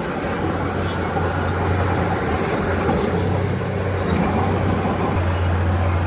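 Heavy diesel engine of earthmoving machinery running steadily under work, a constant low hum with noise above it and a few faint short high squeaks now and then.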